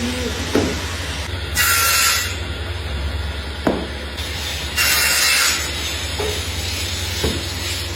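Factory machine running with a steady low hum, cycling about every three seconds: a hissing burst, then a sharp knock.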